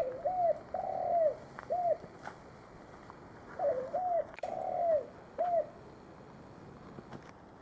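Spotted dove (tekukur) cooing in two phrases of several hooked, rolling coos, each phrase with one longer drawn-out coo. A sharp click sounds right at the start.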